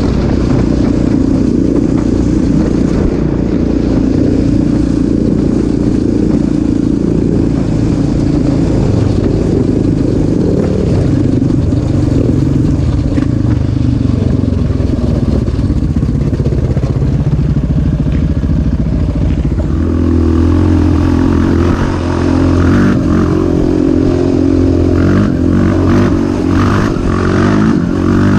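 Off-road vehicle's engine running loud and revving up and down as it rides, its note shifting with the throttle, with a rattling clatter over the engine in the last several seconds.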